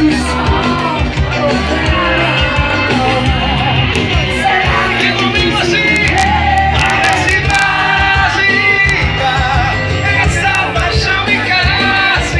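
Live band music with a lead singer, over a steady low beat, with shouts from the audience.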